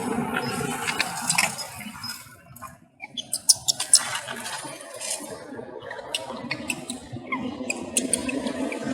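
Baby monkey crying with short, high-pitched squeaks, scattered irregularly.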